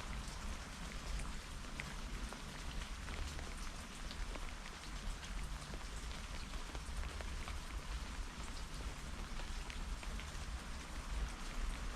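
Steady rain falling, with a dense hiss and scattered individual drops ticking on a surface, over a constant low rumble.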